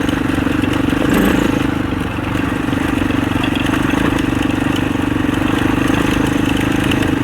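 Husaberg 650 single-cylinder four-stroke dirt bike engine running at a steady throttle while being ridden, its note holding even apart from a slight dip about two seconds in.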